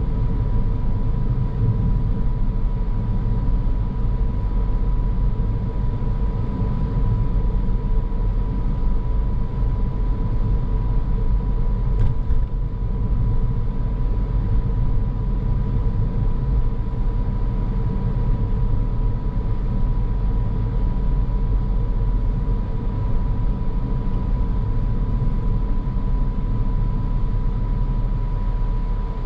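Car driving: steady low road and engine rumble with a constant thin whine, and a brief tick about twelve seconds in.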